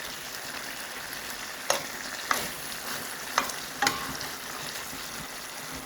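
Chicken wings sizzling in a honey glaze sauce in a pot, a steady frying hiss with four sharp clicks spread through it.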